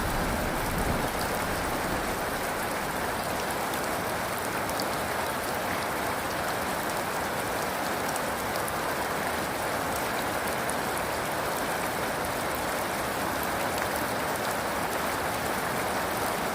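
Steady heavy rain falling, an even hiss with scattered drop ticks. A low thunder rumble dies away in the first second.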